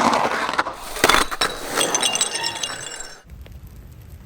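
Two sharp crashes about a second apart, followed by high tinkling, ringing tones that die away. The sound cuts off abruptly about three seconds in.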